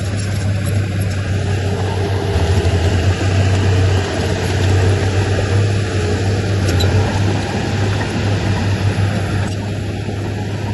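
Heavy diesel earthmoving machinery engine running steadily under load, its low drone growing heavier a couple of seconds in and easing near the end.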